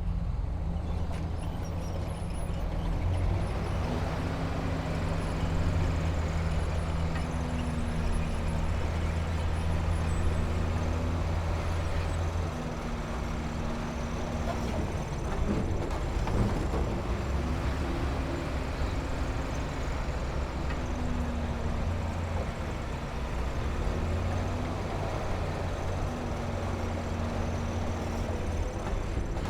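Diesel engine of heavy earthmoving machinery running steadily with a low drone, joined every few seconds by a higher whine that comes and goes as the machine works.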